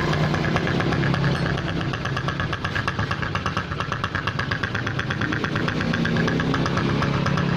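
Honda Supra X 125's single-cylinder four-stroke engine idling with an uneven, snoring ('ngorok-ngorok') sound. The rough running comes from a vacuum leak: a breather/vacuum hose cracked right at its clamp.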